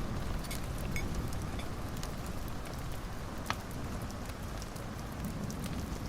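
Wood fire in a fireplace crackling, with scattered small pops over a steady low rumble and one sharper snap about midway.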